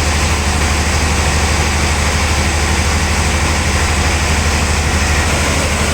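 Sawmill machinery running steadily: a constant loud low hum with an even hiss over it.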